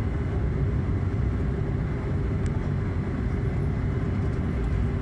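Steady low rumble of cabin noise inside a Boeing 777-200 on the ground after landing, from its engines and air conditioning.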